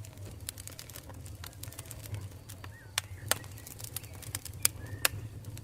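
Campfire crackling: irregular sharp pops and snaps from the burning wood, a few louder than the rest, over a steady low rumble of the flames. A couple of faint short bird chirps come in about halfway through and near the end.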